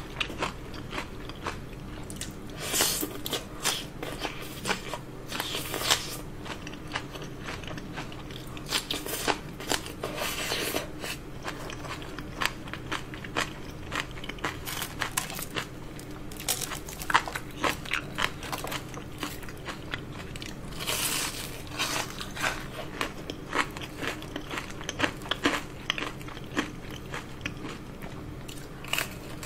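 Close-miked eating: crisp, irregular crunching and chewing of fried battered shrimp and green onion kimchi, with louder bites every few seconds.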